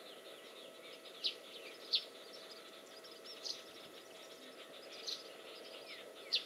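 Faint outdoor ambience of birds chirping: many quick, high chirps, with about five sharper, louder ones spread through, over a quiet steady background.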